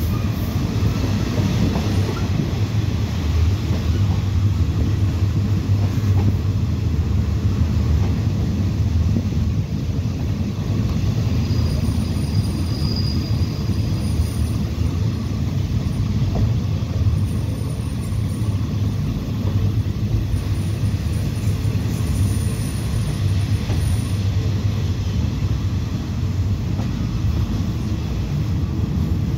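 State Railway of Thailand passenger train running along the track, heard from an open carriage window: a steady low rumble, with a faint high squeal for a couple of seconds about halfway through.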